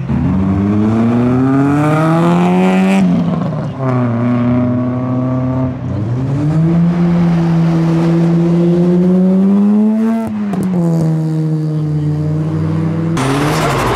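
Modified car engine accelerating away, its pitch climbing and then stepping down a few times as it changes gear before settling to a steady drone. Near the end a loud rushing noise sets in.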